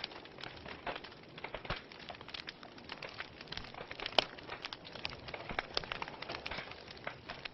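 A fire crackling in a fireplace: a soft hiss with many irregular pops and snaps, one sharp pop louder than the rest about four seconds in.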